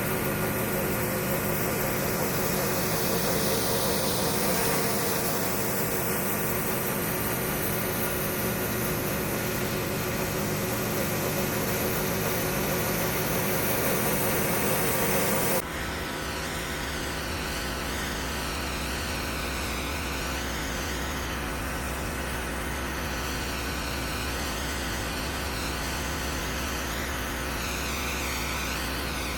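Pressure washer running steadily with water spraying on concrete. About halfway through, the sound changes abruptly to a lower, humming mix.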